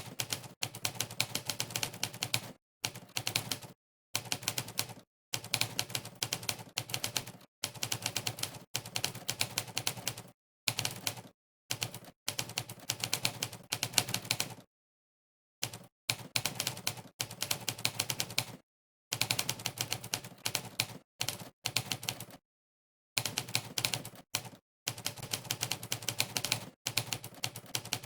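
Typewriter keystroke sound effect from the Monkeytype typing test, one sharp typewriter clack per key press, coming in quick runs of many clacks a second. The runs break off into short dead-silent gaps of about half a second to a second.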